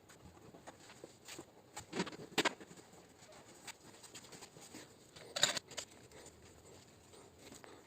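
Faint, scattered clicks and taps of paintless dent repair tools working the sheet metal of a car tailgate, with a few sharper ticks about two seconds in and again past five seconds in.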